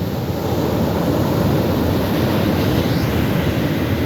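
Wind buffeting the microphone over ocean surf on a beach: a steady, rumbling rush with no distinct events.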